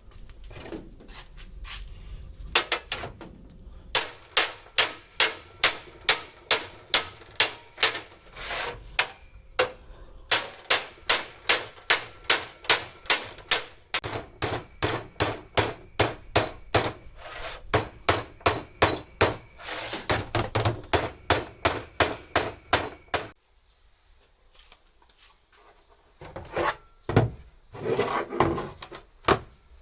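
Rhythmic hand-tool strokes on steel plate, about two to three a second, in long runs with short breaks. Near the end the strokes stop and only a few irregular scraping sounds remain.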